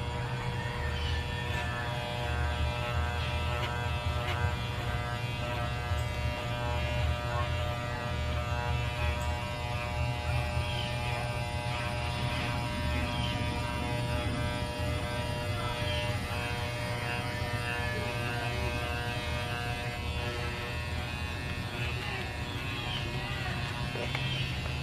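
Electric pet hair clippers buzzing steadily while shaving a small dog's coat.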